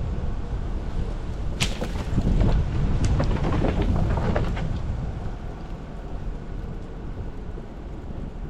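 Jeep Wrangler Rubicon crawling over a snowy trail: a steady low drivetrain and tyre rumble, with a run of sharp cracks and crunches from about a second and a half in to about four and a half seconds, as the tyres break through ice, snow and rock.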